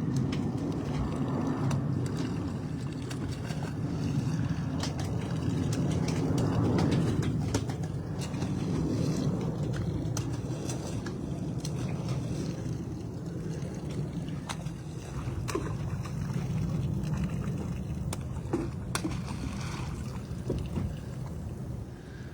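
Fish-stocking truck running, with a steady low rumble and water gurgling and splashing as the load of fish is let into the lake. The sound swells and eases, with a few light clicks and knocks.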